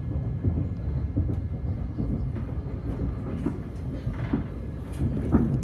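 Electric commuter train running at speed, heard from inside the carriage: a steady low rumble with scattered short wheel-on-rail knocks.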